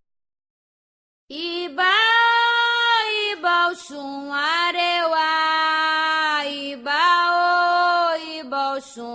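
About a second of silence, then a solo woman's voice starts singing a Candomblé chant unaccompanied, in long held notes that slide between pitches, with short breaths between phrases.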